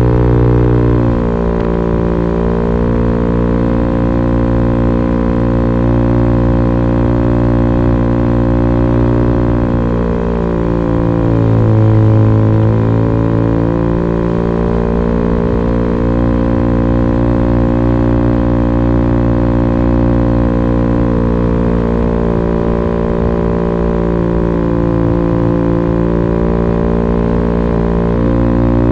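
Italjet Dragster 125's two-stroke single-cylinder engine running through an Akrapovic racing slip-on muffler with the baffle removed, giving a loud, steady drone. Its pitch slides down and back up about halfway through as the revs drop and pick up again.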